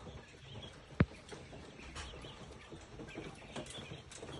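Quail chirping faintly, with one sharp click about a second in.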